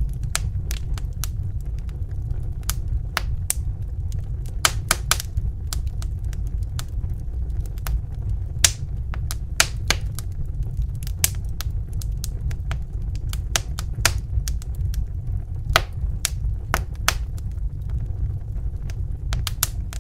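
Wood fire in a fireplace crackling: irregular sharp pops and snaps, a few louder than the rest, over a steady low rumble of burning.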